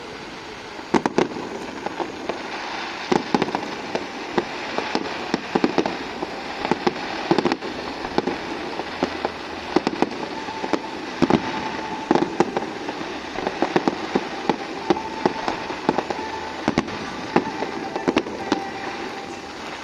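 Fireworks display, with many sharp bangs from aerial shells bursting at an irregular, rapid pace over continuous crackling. The bangs start about a second in.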